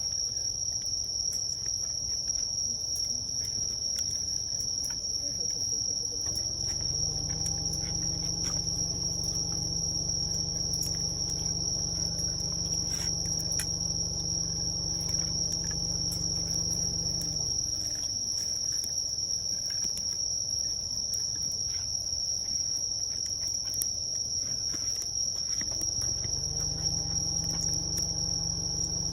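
Crickets trilling steadily as one continuous high note, with the irregular small pops of a crackling wood campfire. A low droning hum comes in about a quarter of the way through, fades out a little past halfway, and returns near the end.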